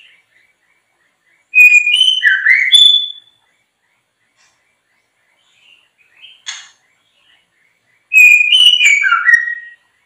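Songbird singing: two loud phrases of quick whistled notes sliding up and down, about six seconds apart, with a single short call between them.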